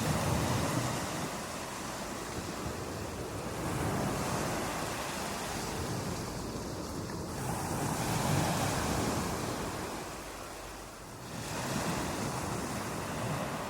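Ocean surf breaking on a beach, the wash of noise swelling and ebbing in waves about every four seconds.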